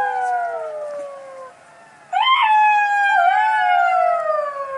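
Jackal howling: long, overlapping wails that slowly fall in pitch. A fresh howl rises sharply about two seconds in, then slides down.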